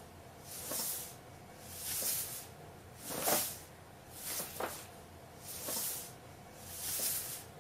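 A cat breathing noisily, with a hissy breath about every 1.2 seconds, six in all.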